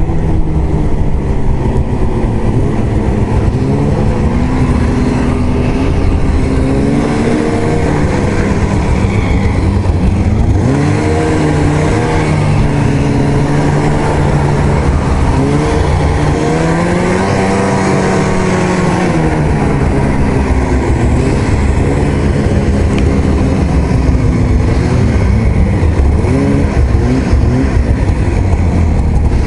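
Arctic Cat ZR 8000 snowmobile's 800 C-TEC two-stroke twin running under way, its revs rising and falling again and again as the throttle is worked, over a steady rush of noise.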